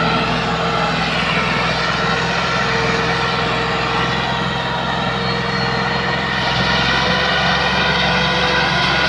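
Tractor's diesel engine running steadily under a heavy load of sugarcane. Its pitch sags a little midway and picks up again past the middle.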